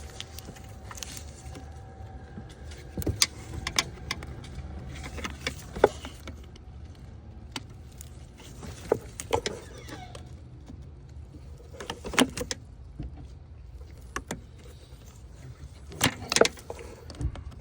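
Scattered sharp clicks and knocks of plastic clips and tabs being pried and pressed by hand and with a pick tool, a few at a time, with the loudest near the end, over a steady low rumble.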